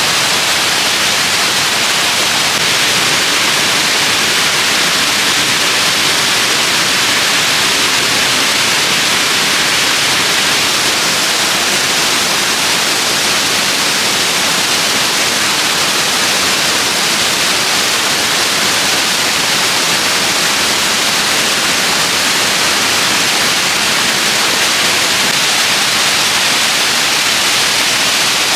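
Waterfall's steady rushing water, loud and unchanging.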